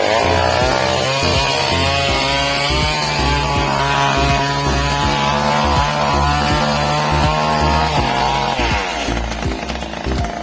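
Chainsaw cutting a tree: the engine revs up at the start and runs at full throttle through the cut, then drops away as the throttle is released about eight and a half seconds in.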